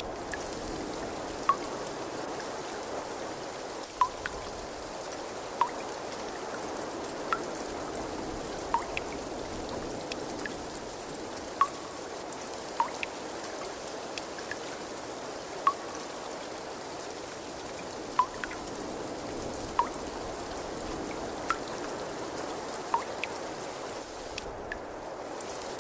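Water trickling steadily, with single drops plinking into water at irregular intervals of about a second or so.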